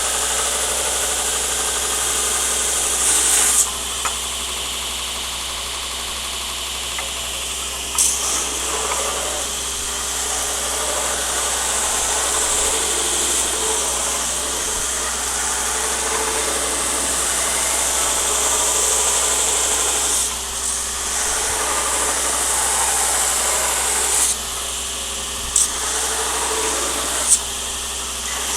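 Steady loud rushing noise of running workshop equipment, with a few sharp knocks scattered through it.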